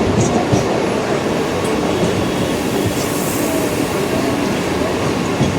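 Mumbai suburban electric local train running at speed, heard from inside the coach: a steady rumble of wheels on rails with a few short clicks.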